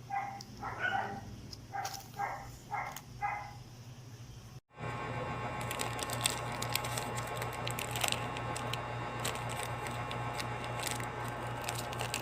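About eight short, pitched yelps, like a small dog barking, over a steady electrical hum. After a sudden cut, a steady hum with hiss and many scattered clicks and crackles follows.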